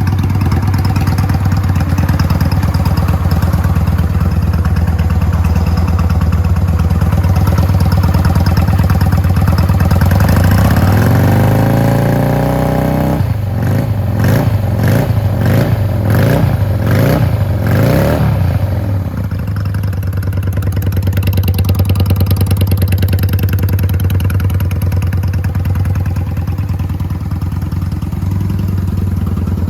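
Honda Shadow Slasher 400's V-twin engine running through aftermarket slash-cut mufflers: it idles steadily, the revs climb about ten seconds in, it is blipped sharply several times in quick succession, and then it settles back to idle.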